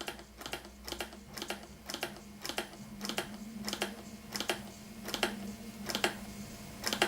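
Empire Model 62 model steam engine running down, each stroke giving a sharp tick or chuff. The beats slow from about four a second to about one a second as steam pressure falls with the boiler heater switched off.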